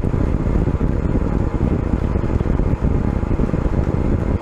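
Steady, deep rumbling noise of an Electron rocket's flight audio during stage separation and second-stage engine ignition.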